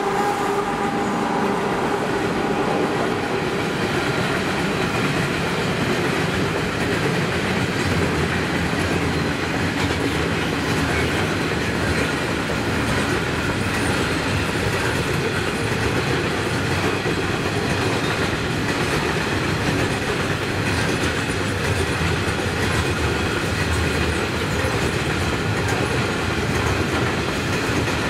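Loaded coal hopper wagons of a freight train rolling past at speed, their steel wheels rumbling and clacking steadily over the rails. The pitched hum of the passing locomotive fades out within the first second.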